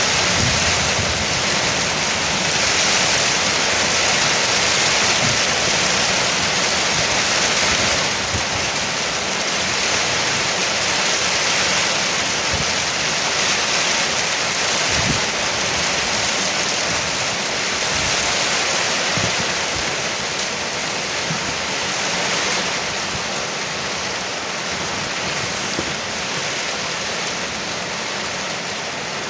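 Heavy rain falling steadily on a porch roof, a dense even hiss that eases slightly over the last several seconds.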